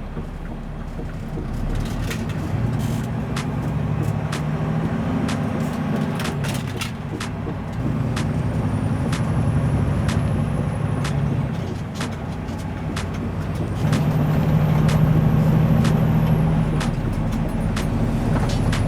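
Semi truck's diesel engine running under way, heard from inside the cab: a steady low drone that changes pitch and strength several times and is loudest a little past the middle, with scattered sharp clicks and a faint high whistle that rises and falls twice.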